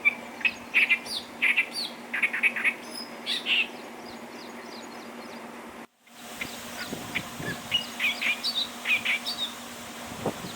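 Clamorous reed warbler singing: clusters of short, quick notes, broken by a brief dropout about six seconds in, then carrying on. A steady low hum runs underneath.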